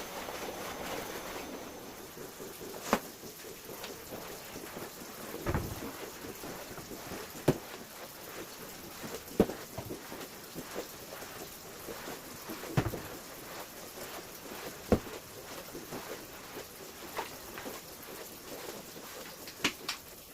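A floor-cleaning tool swishing and scraping across a hard kitchen floor, with sharp knocks every two or three seconds as it is set down or bumps.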